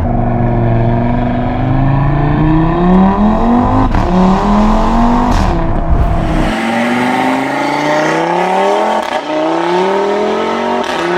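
Audi RS3's turbocharged five-cylinder engine, breathing through a BullX downpipe and mid-pipe, under hard acceleration. Its note climbs in pitch, drops back at each upshift, then climbs again, several times over.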